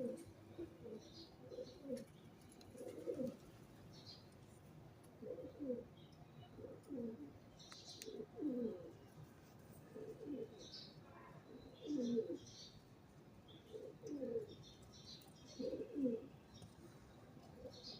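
Pigeons cooing over and over: short, low coos that slide down in pitch, coming about every second or so. Small birds chirp high above them now and then.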